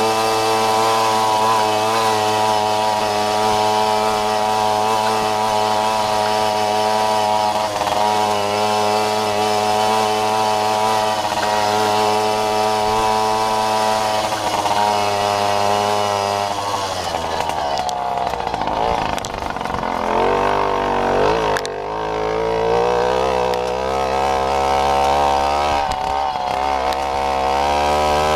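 Babetta moped's small two-stroke engine running at steady high revs. About seventeen seconds in, the revs drop and rise and fall unevenly for a few seconds, then climb again toward the end.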